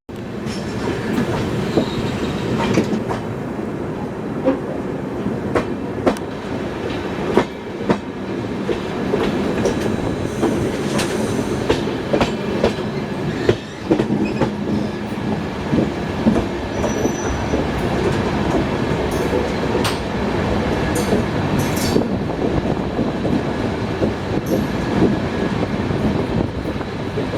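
Passenger train running through the ghat, recorded on board: a steady rumble of the coaches with irregular sharp clicks and knocks of the wheels over rail joints, and a brief faint high wheel squeal now and then.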